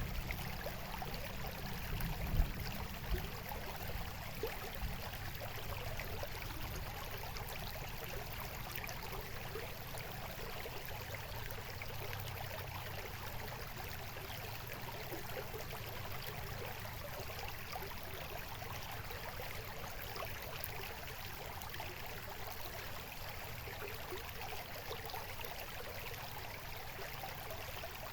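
Babbling stream of water trickling and splashing steadily. In the first few seconds there are some low thumps, the loudest about two seconds in.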